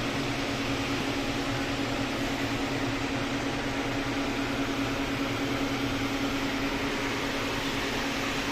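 Steady hum of electric machinery in a broiler house, one constant low tone under an even whirring noise, with no change in speed or pitch.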